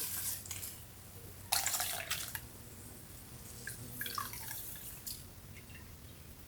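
Water from a kitchen tap splashing and dripping in three short bursts, with small plinks of drops between.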